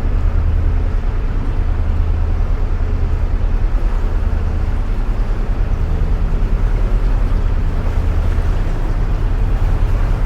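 A narrowboat's engine running steadily at cruising speed, a loud, even low drone inside a canal tunnel.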